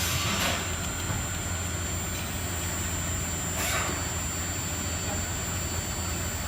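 Steady machine hum with an even hiss, broken by two brief swishes, about half a second in and again near the middle.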